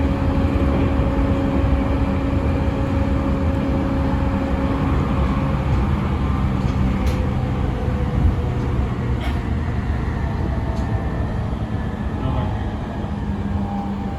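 JR East E217 series electric train running, heard from inside the car: rumble of wheels on track with the steady hum of its Mitsubishi IGBT inverter and traction motors, whose tones shift about five seconds in. A few sharp clicks come partway through.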